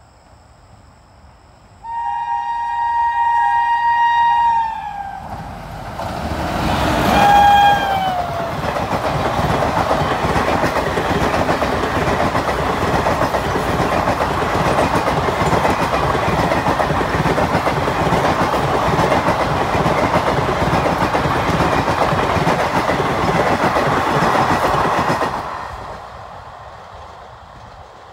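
Indian Railways express train passing at speed. The locomotive horn sounds a long held blast about two seconds in, then a shorter blast that drops in pitch as the locomotive goes by. Then comes the steady loud rush of the coaches running past for about seventeen seconds, fading quickly near the end as the train recedes.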